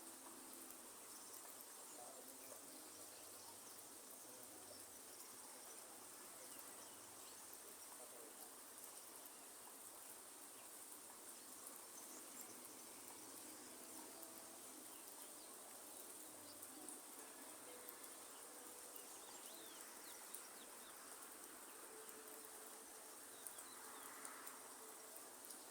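Faint rainforest ambience: a steady high-pitched insect drone, with soft low bird calls now and then.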